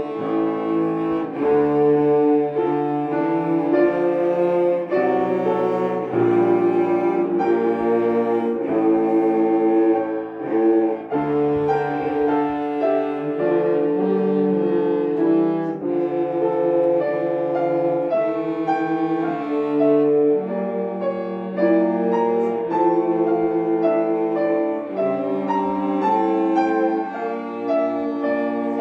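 Three cellos playing a classical piece together with piano accompaniment, sustained bowed notes with vibrato over the piano.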